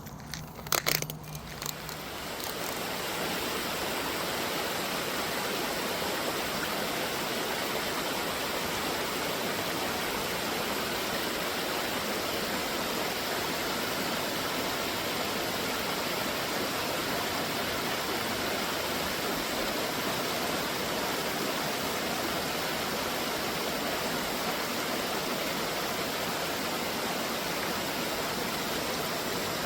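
Waterfall water rushing steadily. A few short knocks in the first two seconds, then the water sound swells up and holds level.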